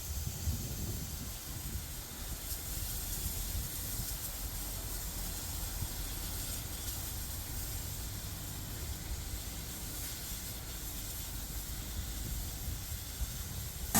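Steam hissing steadily from a steam locomotive, with a low rumble underneath.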